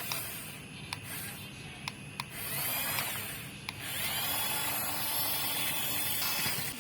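Small electric toy motor whirring, rising in pitch as it spins up and then holding steady, twice, with a few sharp plastic clicks in the first couple of seconds.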